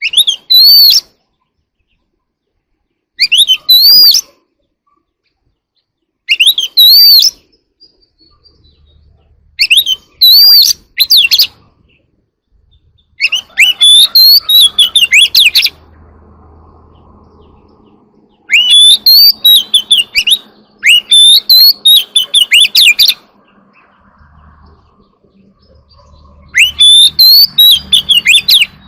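Oriental magpie-robin singing loud, varied whistled phrases. At first they come as short phrases about a second long, a few seconds apart; from about halfway they become longer runs of song lasting two to three seconds.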